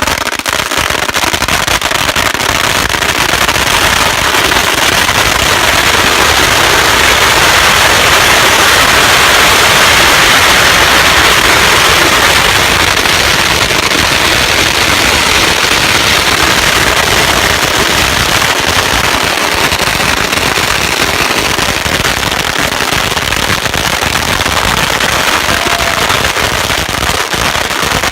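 A long string of firecrackers going off in rapid, continuous popping, loud and unbroken, swelling to its loudest about ten seconds in.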